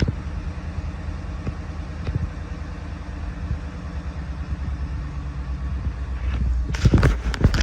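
A 2014 Ford F-150's 5.0 L V8 engine idling with a steady low rumble. A few sharp knocks come near the end.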